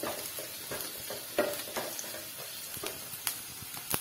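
Oil sizzling in a non-stick kadai as chopped ginger, garlic, green chillies and curry leaves fry for a tadka. A wooden spatula scrapes and knocks against the pan a few times, most sharply near the end.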